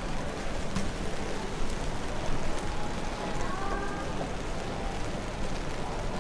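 Steady rain falling, an even hiss with drops ticking sharply close by.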